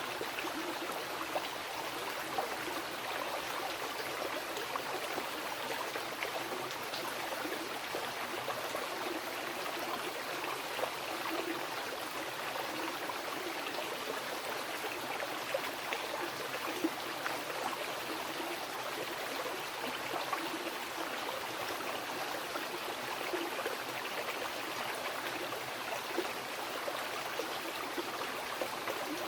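Mountain river flowing over rocks: a steady rush of water, flecked with small splashes and gurgles.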